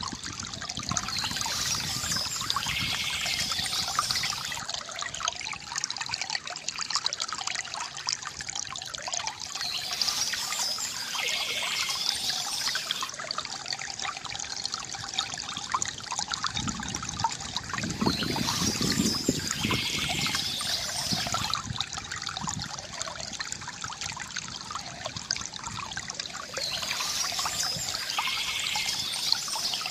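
Stream water flowing and trickling steadily. A brighter, higher burst of sound recurs about every eight and a half seconds, as a looped recording does.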